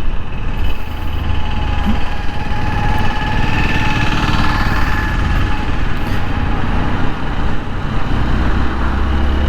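TVS Apache RTR 160 4V single-cylinder engine running steadily while the motorcycle is ridden, under a steady low rumble. The engine has just had its loose tappets adjusted, and the owner says the tappet noise from the engine has stopped.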